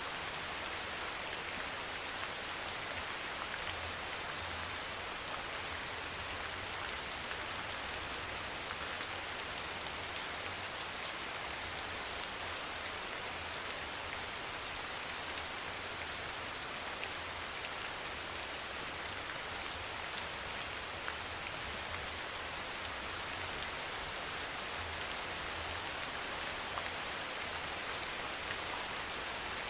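Steady rain falling, an even hiss of many drops with fine scattered patters, over a faint low rumble.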